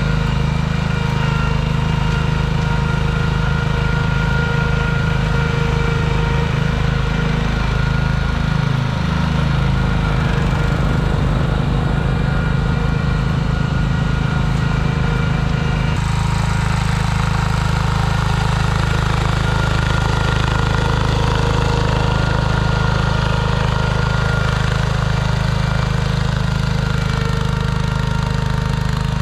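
Small garden tractor engine running steadily, with a low, even engine note; the sound shifts abruptly to a different steady engine note about halfway through.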